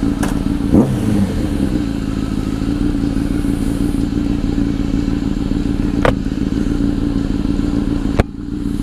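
Honda CBR1000 sportbike's inline-four engine with a Two Brothers exhaust running steadily on the move, heard through a helmet microphone. A few sharp clicks cut in: about a second in, around six seconds, and near the end, where the engine note briefly drops away.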